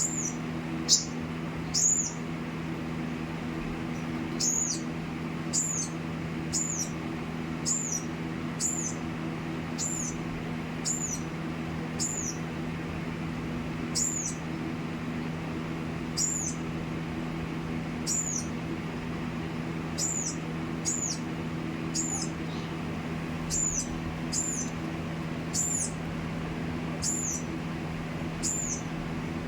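A small bird chirping over and over, a short high chirp about once a second with a few brief pauses, over a steady low hum.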